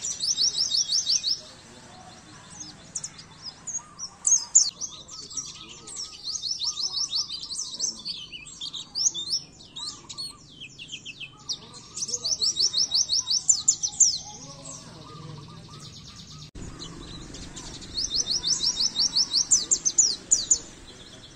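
White-eye (pleci) song: bursts of rapid, fast-repeated high chirping trills, each lasting a second or two to a few seconds, with scattered softer chirps between them.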